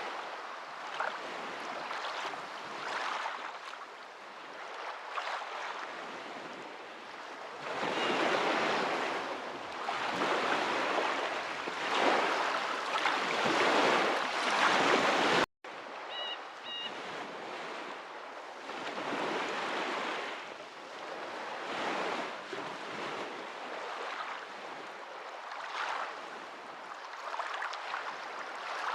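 Ocean surf: waves washing in a continuous rush that swells and ebbs, loudest in the middle. Just past halfway it breaks off for a split second, a sudden gap, then resumes.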